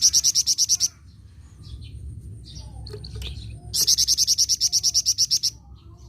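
Songbird kept as a 'flamboyan' singing in full voice. It gives two loud, rapid chattering trills of about ten high notes a second, one at the start and a longer one from near the middle, with softer chirps between.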